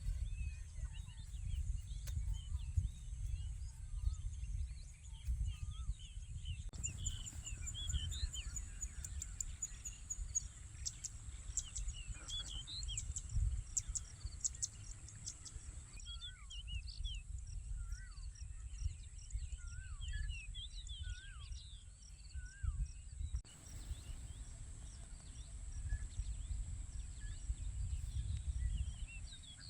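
Nature ambience of many small birds chirping and calling, over a steady high-pitched whine and a low rumble. The background changes abruptly a few times.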